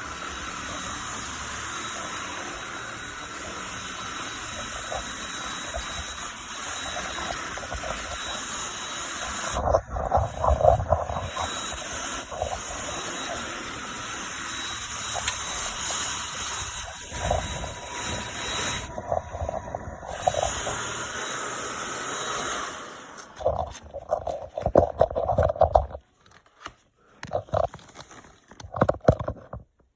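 Cordless brushless stick vacuum running steadily, with two louder stretches as it is pushed over the floor; it cuts off about three-quarters of the way through, leaving scattered clicks and knocks of handling.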